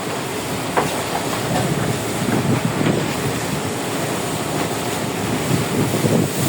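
Strong wind buffeting the microphone on a small fishing boat at sea, with waves washing against the hull and a steady low rumble.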